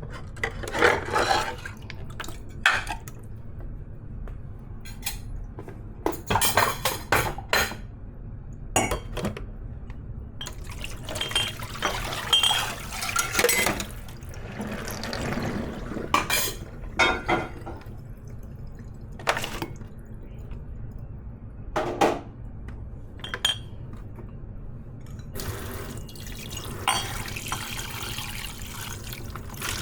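Dishes being washed by hand in a kitchen sink: scattered clinks and clatters of dishes being handled, with stretches of running tap water, once about ten seconds in and again near the end.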